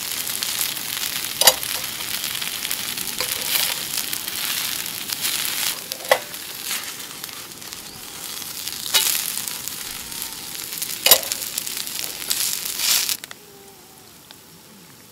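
Vegetable pancake (jeon) frying in oil in a griddle pan over a gas burner: a steady sizzle, broken by a few sharp clicks. The sizzle cuts off abruptly near the end.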